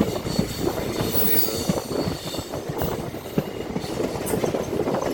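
Passenger train running on the rails, heard from aboard: wheels clattering irregularly over the track, with a thin high wheel squeal as it takes a curve.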